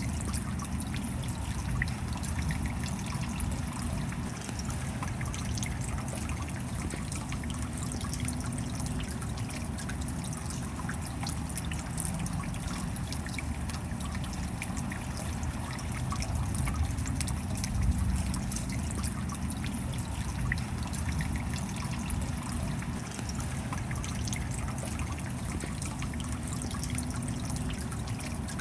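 Steady rain falling, with a constant hiss and many fine drop ticks, and water trickling and dripping.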